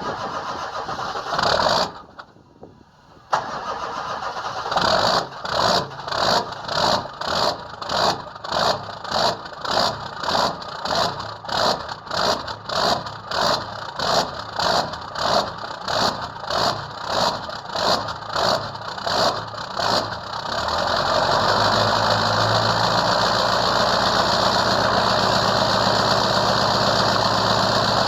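Ford 7.3-litre V8 diesel cold-starting without its block heater: after a couple of brief tries, the starter cranks with a slow pulse about twice a second for some fifteen seconds. About twenty seconds in it catches and settles into a steady idle.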